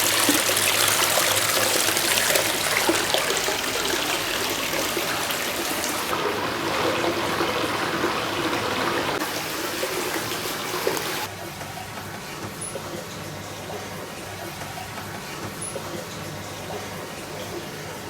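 Steady rushing of flowing water. It drops abruptly in level twice, about a third of the way in and again past the middle, with a few faint high chirps in the quieter last part.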